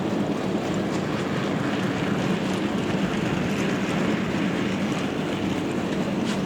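OO gauge model train running along the layout's track: a steady hum and rumble with a few faint clicks.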